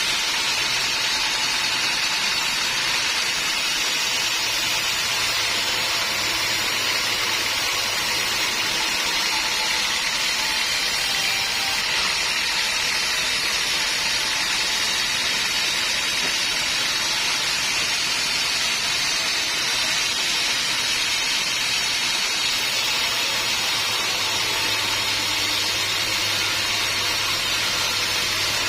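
Homemade band sawmill running steadily through teak wood: an even, unbroken hiss with a low hum underneath.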